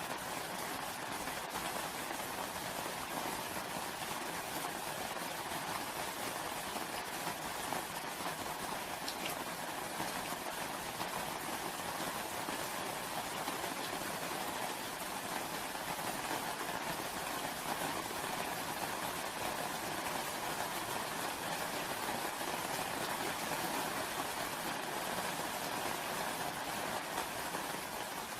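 Steady rain falling, a constant even patter of many drops.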